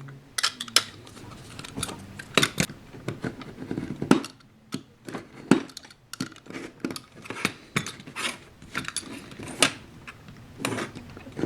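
Craft knife blade scraping along the edge of a plastic cobblestone sheet to take off the burr, a run of short, irregular scratchy scrapes and clicks.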